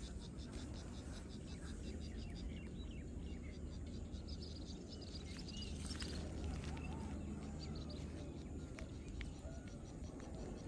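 Several birds chirping and calling, with a rapid high-pitched trill of evenly spaced notes, over a steady low background noise.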